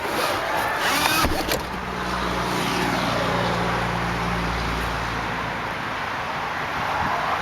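A rear seat being handled for folding: a sharp latch click just over a second in, with a short squeak. A low steady hum follows for a few seconds.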